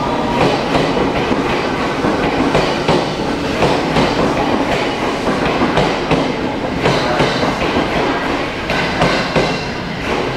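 JR East 209-series MUE-Train electric multiple unit rolling past the platform, its wheels clacking over the rail joints in repeated pairs of clacks over a steady rolling rumble. Near the end the last car goes by and the noise eases a little.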